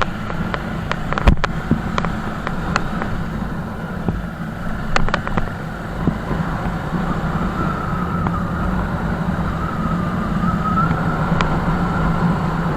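Motor vehicle running steadily, with a low engine-and-road rumble, a few sharp clicks early on, and a wavering whine that comes in around the middle.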